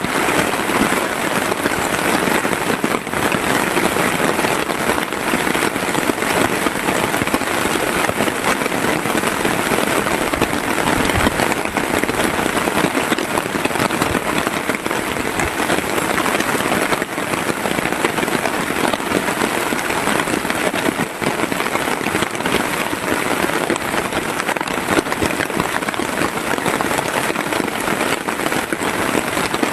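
Heavy rain falling steadily: a dense, even patter of many drops with no pause.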